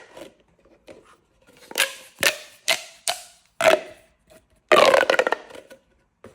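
Corrugated plastic pop tubes being stretched and squeezed: a run of sharp pops about half a second apart, then a longer ringing crackle near five seconds in.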